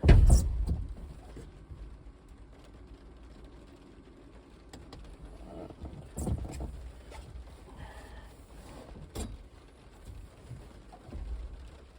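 Rain pattering down, with a heavy thump right at the start and a few scattered knocks and bumps after it.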